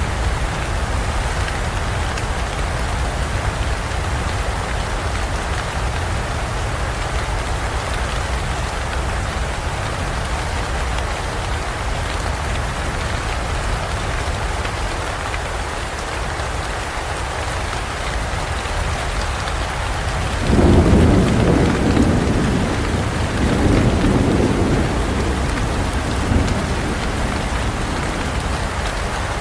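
Rain falling steadily, with a thunderclap about two-thirds of the way through that rumbles and swells for several seconds before fading back under the rain.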